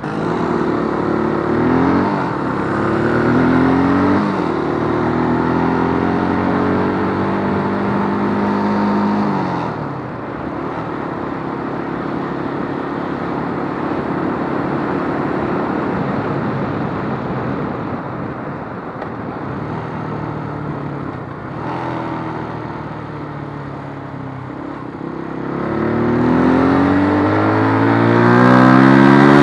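Keeway RKF125's single-cylinder 125 cc engine pulling through the gears, its pitch climbing and dropping at each shift. It then holds a steady cruise, eases off, and revs up through the gears again near the end.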